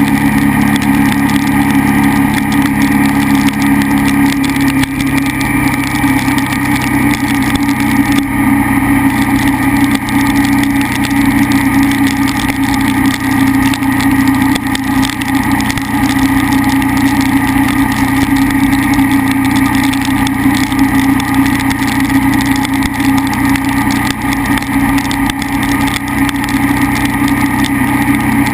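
KTM 990 SMR's V-twin engine running steadily under way, with wind and road noise. The engine note shifts about four seconds in.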